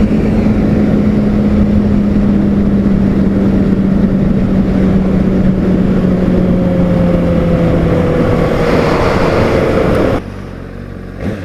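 Honda CBR600RR's inline-four engine running under way with heavy wind noise, the engine note easing slowly downward as the bike backs off. About ten seconds in, the sound drops sharply to a much quieter level.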